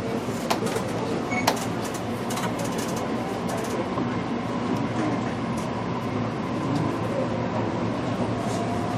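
Interior running noise of a JR Kyushu BEC819 series battery electric train in battery mode: a steady rumble with a faint steady whine from the traction equipment and a couple of sharp clicks in the first two seconds.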